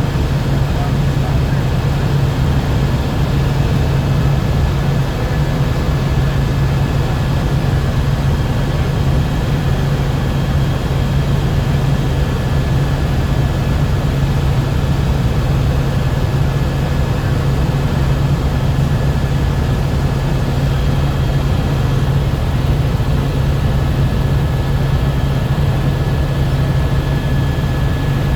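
Helicopter in steady flight, heard from inside the cabin: an unbroken low drone with a thin steady high whine above it.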